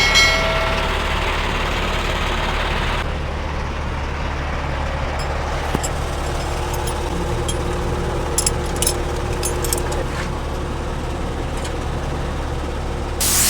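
Engine idling steadily, with a few light metallic clicks, then a loud hiss that starts right at the end.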